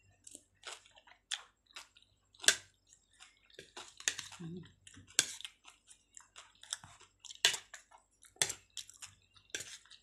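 Close-up chewing of chicken and potato in coconut-milk sauce: a string of sharp, wet mouth clicks and smacks, with a short hum about four seconds in.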